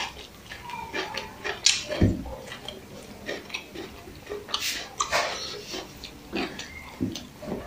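Close-miked wet chewing and lip-smacking while eating vegetable biryani by hand, with many short, irregular mouth clicks.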